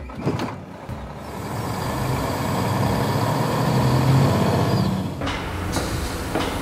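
Heavy vehicle sound effect: a low engine hum under a hissing rush that builds over the first two seconds, is loudest around the middle, and eases about five seconds in, with a few sharp clicks.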